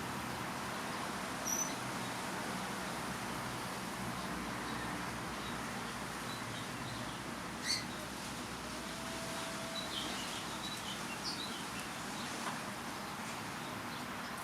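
A few faint, short parrot chirps and squeaks over a steady background hiss, with one sharp click near the middle.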